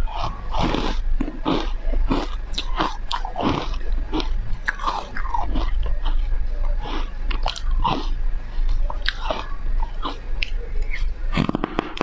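Foam ice being bitten and chewed: irregular, crisp crunches several times a second, with a quick cluster of sharp crunches near the end.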